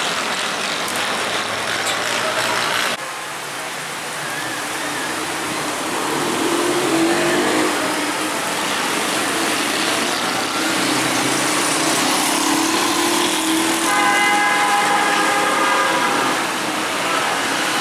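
Road traffic in the rain: a steady hiss of rain and wet tyres, with a vehicle engine rising and falling in pitch through the middle. Near the end a vehicle horn sounds for about two seconds.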